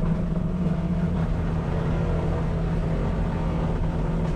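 Cat 259D compact track loader's diesel engine and forestry mulcher head running under load in a steady drone while mulching deadfall, with a slight wavering in pitch about a second in.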